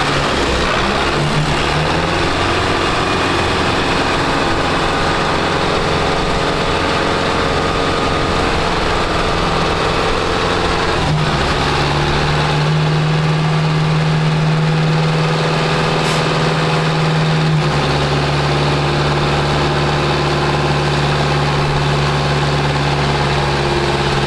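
Tractor diesel engine running steadily, its note stepping to a new pitch abruptly about halfway through and again about two thirds of the way in.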